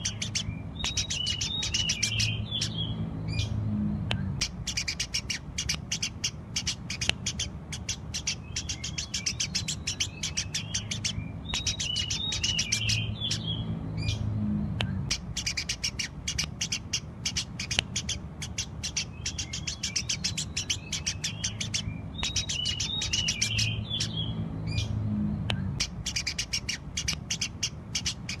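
Eurasian tree sparrows chirping rapidly and continuously in a dense run of short, sharp chirps. The same stretch of chirping comes round again about every eleven seconds, as in a looped recording.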